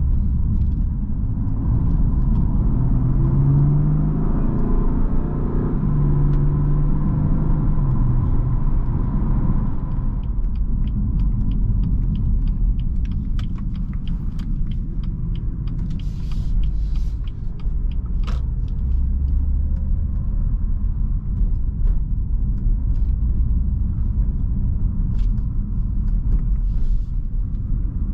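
BMW M4 Competition's 3.0-litre twin-turbo inline-six engine and exhaust on the move: the engine note climbs and drops a few times over the first ten seconds or so, then settles into a steady low rumble with scattered light clicks.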